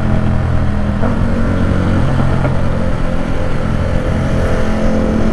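Ducati Supersport 950 S's 937 cc L-twin engine running through its aftermarket exhaust at fairly steady revs, a loud continuous low drone.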